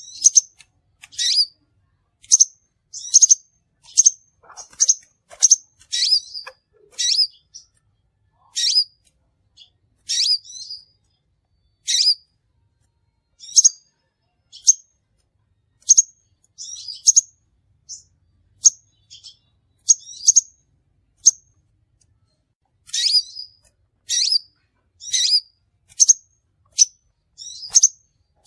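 Crimson sunbird calling: a series of short, sharp, high-pitched chips, single or in quick pairs, with short silent gaps between them and a brief pause about three quarters of the way through.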